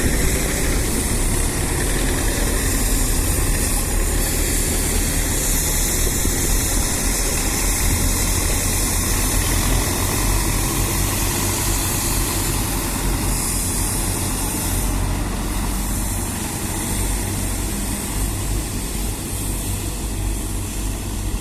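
Vehicle engine running steadily at idle under a constant hiss of blizzard wind.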